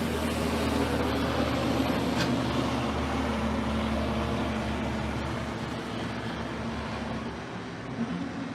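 A motor engine running with a low hum and a steady tone, fading away over the last few seconds.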